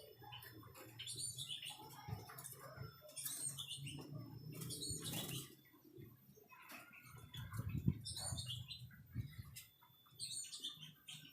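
White-rumped shama (murai batu) giving short, repeated chirps and call phrases, broken by a few brief rustling sounds.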